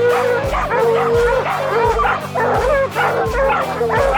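A pack of hunting hounds baying and yipping together at a treed bear, many overlapping wavering calls. Background music with a steady beat plays under them.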